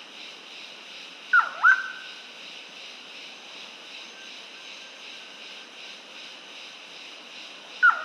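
Rusty-naped pitta calling: a loud pair of quick whistled notes, each swooping down and back up, about a second and a half in, repeated once near the end.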